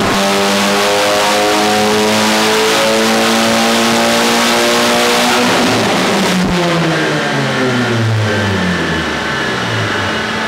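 Mk5 Golf GTI's turbocharged 2.0 TFSI four-cylinder, converted to a K04 turbo, pulling at full throttle on a rolling-road dyno, its note climbing steadily for about five seconds. A sharp click comes about six and a half seconds in, then the revs fall away as the car runs down.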